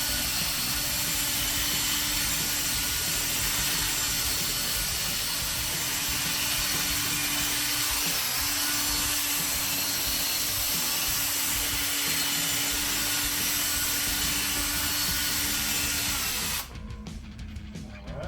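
Power drill spinning a polishing pad that buffs compound on a plastic headlight lens. It runs steadily and stops abruptly near the end.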